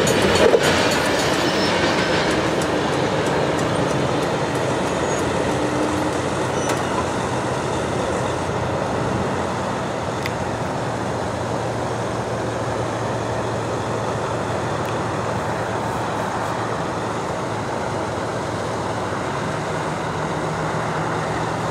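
Freight train of covered grain hopper cars rolling past on the rails, the noise easing off over the first several seconds as the end of the train moves away, then settling into a steady low rumble.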